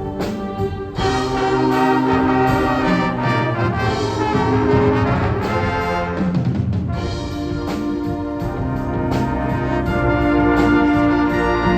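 A high school winds ensemble plays full, brass-led band music of sustained chords, with the sound thinning briefly about six seconds in before the chords build again.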